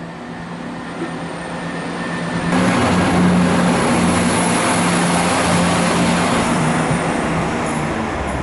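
Diesel train passing close, its engine note and rumble rising sharply about two and a half seconds in, then easing off near the end.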